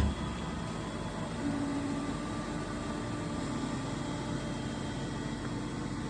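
EMCO Emcoturn 345 CNC lathe humming steadily while under power, with a low steady tone joining about a second and a half in.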